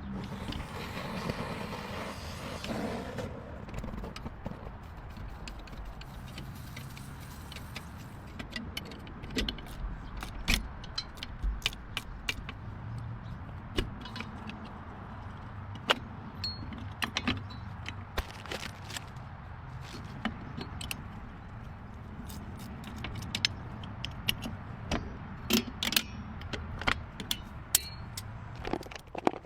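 Scattered sharp metallic clicks and clinks, thicker from about eight seconds in and again near the end, over a steady low hum; a brief rush of noise comes in the first few seconds.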